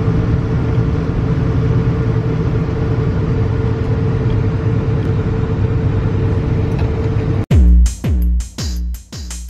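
Steady rumble of a moving train heard from inside the carriage, with a constant hum over it. About seven and a half seconds in it cuts off abruptly to an electronic intro sting: a run of deep bass hits about half a second apart, each sliding down in pitch.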